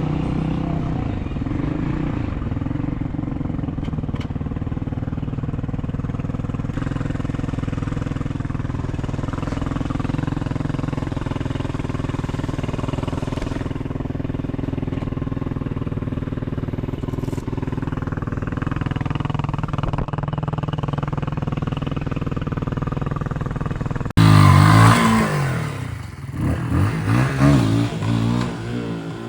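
A Hawk 250 dual-sport motorcycle's 250cc engine running at a steady pace for most of the stretch. About 24 seconds in it abruptly becomes louder, with the engine revs falling and rising.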